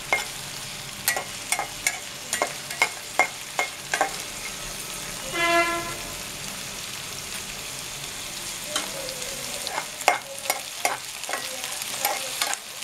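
Chopped onions and green chillies frying in oil in a pan, sizzling steadily, with a spatula clicking and scraping against the pan again and again as they are stirred. About halfway through, a brief pitched tone sounds for half a second.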